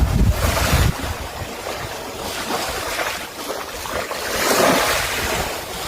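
Wind and surf: gusts buffet the microphone with a low rumble in the first second, then a wave-like swell of rushing noise rises and falls about four to five seconds in.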